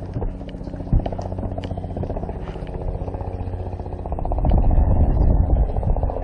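A motor running steadily with a fast, even pulse, with scattered light knocks; a loud low rumble swells in about four seconds in.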